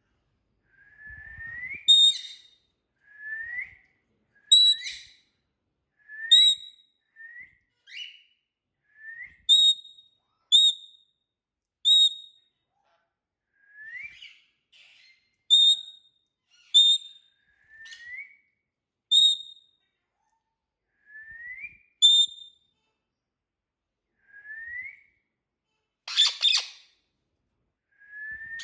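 Indian ringneck parrot whistling and calling: short rising whistles repeated every second or two, alternating with sharp high chirps, and one harsh squawk near the end.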